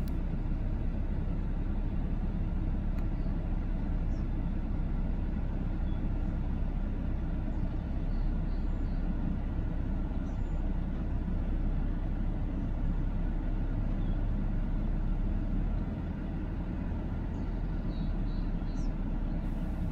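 Car running, heard from inside the cabin: a steady low rumble throughout, with a few faint short high chirps twice.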